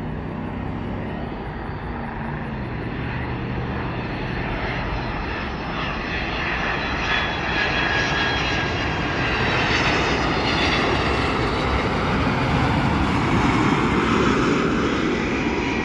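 Condor Boeing 767 twin-engine jet airliner passing close by on its landing approach: a rushing engine noise that builds to its loudest in the second half, with a high whine whose pitch falls as it goes past.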